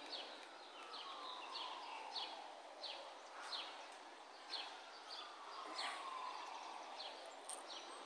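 Small birds chirping, short quick falling calls repeated every second or so, faint over steady outdoor background noise.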